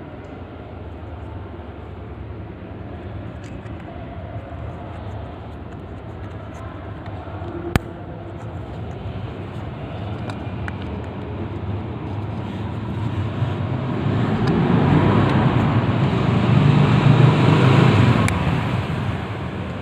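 A passing vehicle over a background of road traffic: a low rumble that swells for several seconds and eases off near the end. A single sharp click comes about eight seconds in.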